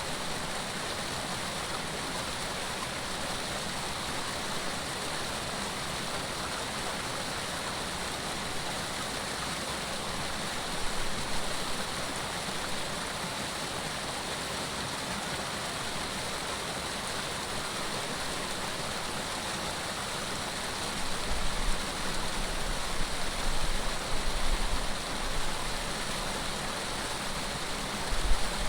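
Flowing water rushing steadily. From about 21 seconds in, irregular low gusts of wind buffet the microphone.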